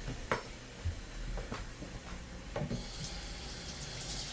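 A few light knocks and clicks of kitchenware, then a steady hiss that starts about two-thirds of the way in and grows toward the end.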